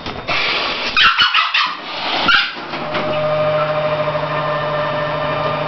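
Hissing in several short bursts over the first couple of seconds, then only a steady low electrical hum.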